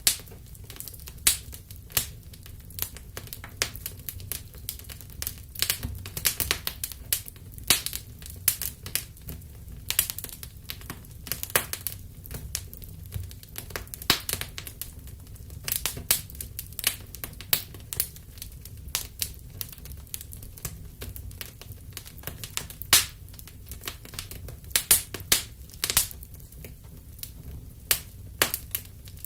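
Wood fire crackling: frequent irregular sharp pops and snaps over a low steady rumble of burning.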